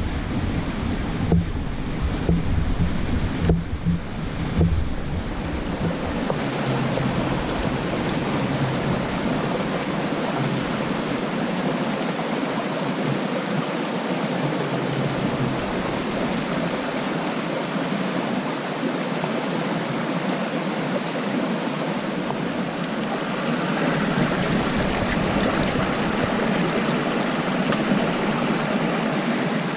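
Steady rushing noise of lake waves and wind, with uneven low wind buffets on the microphone in the first five seconds.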